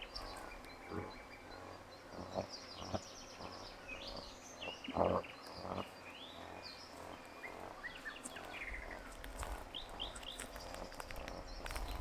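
Small birds chirping and singing in short, rapid phrases, with a few soft knocks in between.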